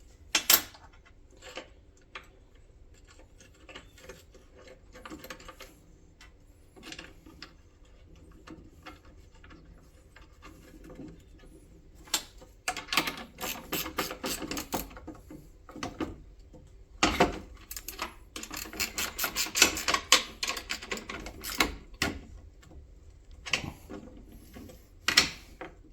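Metal clicks, clunks and rattles of a console floor-shifter mechanism being fitted and worked by hand. They are sparse at first and get busier and louder about halfway through.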